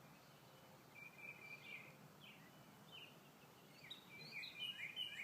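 Faint bird calls over quiet background hiss. A short chirping phrase comes about a second in, then near the end a quick run of repeated, falling notes, about three a second.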